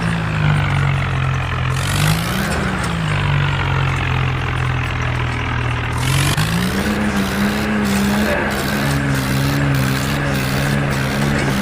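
Tractor engine running steadily as an animation sound effect. Its pitch drops near the start and rises again about six seconds in as it revs up.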